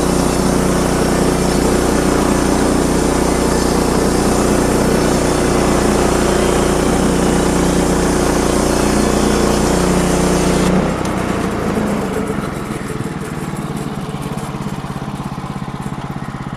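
Sawmill engine running at speed with the blade cutting through a log, a loud steady run with a hiss over it. About eleven seconds in, the cutting hiss stops suddenly and the engine drops to a quieter, pulsing idle as the cut ends.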